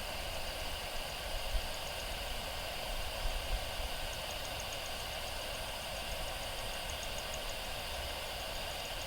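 Steady hum of jet airliner engines, with a faint rapid high ticking in the second half.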